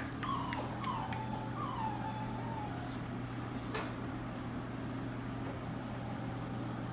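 Six-week-old Labrador Retriever puppies whining, a few high whimpers sliding down in pitch over the first three seconds, over a steady low hum.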